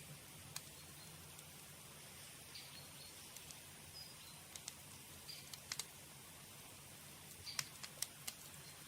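Campfire crackling: scattered sharp pops and snaps of burning wood, with a quick cluster of louder snaps near the end. A few short, high chirps and a faint steady low hum sit underneath.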